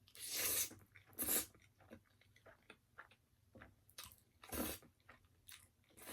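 Close-up eating of crispy fried chicken: three loud crunching bites, the first lasting about half a second, with smaller wet chewing clicks in between.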